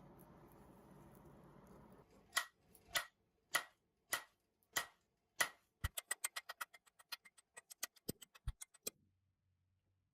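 A series of sharp clicks: at first about one every 0.6 s, then quickening to about six a second, then stopping suddenly.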